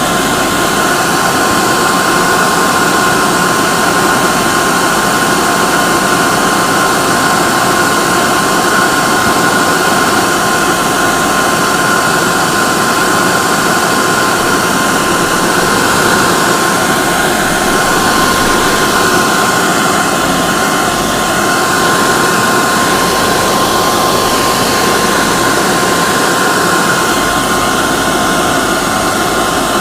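Hair dryer running steadily: a constant rushing of air with a steady high motor whine.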